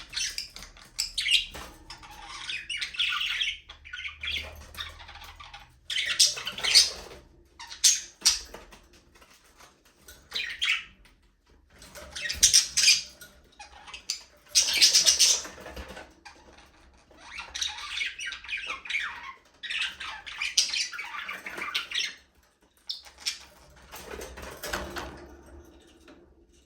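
A flock of budgerigars chirping and chattering in repeated bursts a second or two long, with short pauses between.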